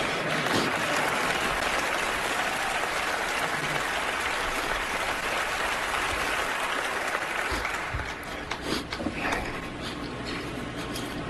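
Audience applauding, easing off after about eight seconds.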